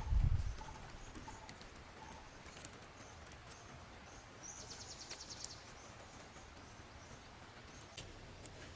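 Quiet forest ambience: a low rumbling noise fades out in the first half second, then faint scattered clicks and short chirps, with a brief rapid high-pitched trill about halfway through.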